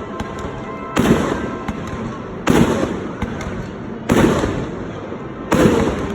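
Fireworks exploding in a steady series: four loud booms about a second and a half apart, each fading away before the next.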